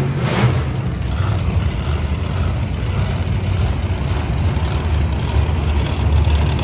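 Big engine, likely a monster truck's, idling with a steady low rumble just after a rev dies away.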